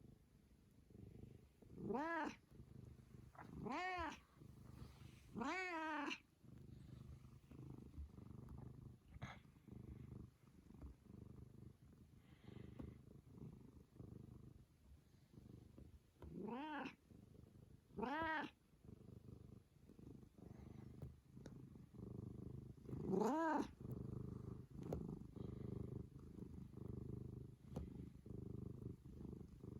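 Domestic cat purring steadily, broken by six short meows that rise and fall in pitch: three in the first six seconds, two around the middle, and a louder one later on.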